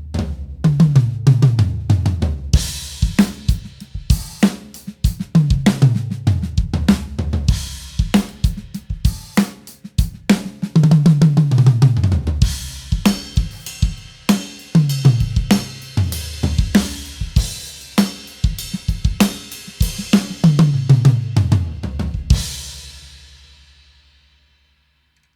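Drum kit played with repeated fills running down the toms from high to low, between beats of kick, snare and cymbals. The toms wear Evans HD Dry two-ply heads with a dampening ring and vent holes, at finger-tight tension, giving a low, dry, muffled tom sound with little ring. It ends on a cymbal crash left to ring out.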